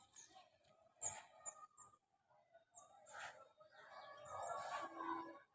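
Faint bird chirps: short, high calls a few times over the seconds, with other low, indistinct sounds underneath.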